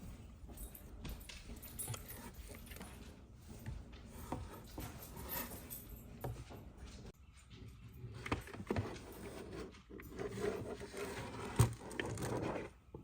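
Scattered light scrapes, rustles and small knocks of things being handled, with one sharper knock near the end.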